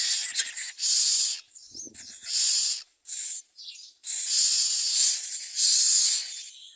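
Common myna nestlings giving harsh, hissing begging calls in a rapid, irregular series of rasps, some short and some drawn out over a second. There is a soft low bump about two seconds in.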